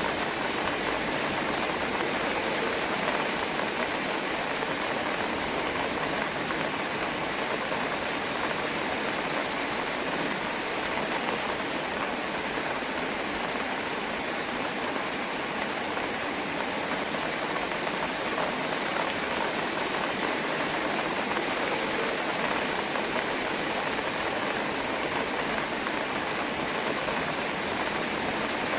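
Steady rain falling: an even hiss of many drops that holds the same level throughout, with no single drop standing out.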